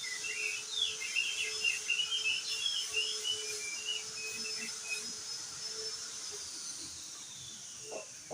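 Crested heleia (opior jambul) singing a rapid, twittering chatter of short notes for about five seconds, then falling silent. A steady high whine runs behind it and slides down in pitch near the end.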